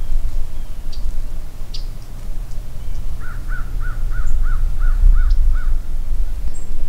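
A bird calls a quick run of about eight short, even notes, about three a second, midway through. Underneath is a steady low rumble, and there are a few faint high chirps.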